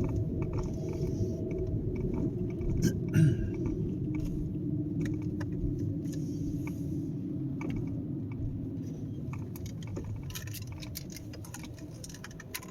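Car engine running steadily, heard from inside the cabin, with scattered light clicks and rattles and one louder knock about three seconds in.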